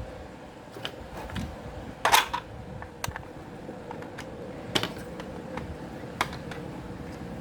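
Sharp clicks and snaps of small hard objects being handled, with a louder crackling scrape about two seconds in and a few single clicks after it, over a faint steady hum.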